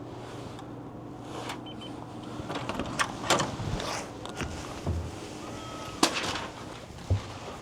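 Hotel room door being unlocked and opened: several sharp clicks and knocks from the handle and latch, with a brief tone about six seconds in, over a low steady hum.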